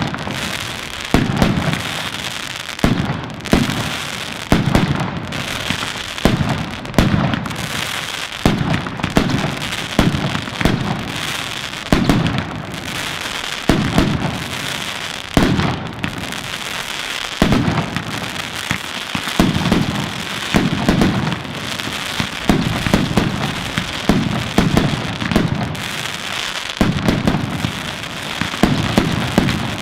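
Fireworks going off: a loud bang every second or two, each with a short rumbling tail, over steady crackling.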